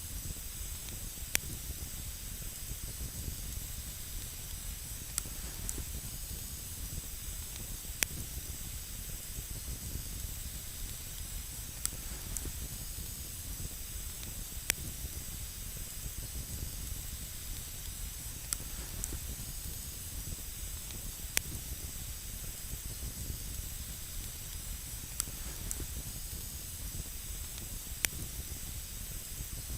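Wood campfire burning with a steady hiss, and sharp crackles and pops every few seconds.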